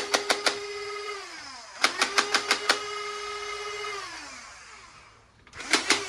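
Battery-powered toy gun firing in bursts: rapid clicks, about seven a second, over a whirring tone that falls in pitch and winds down after each burst. Bursts come at the start, about two seconds in, and again near the end.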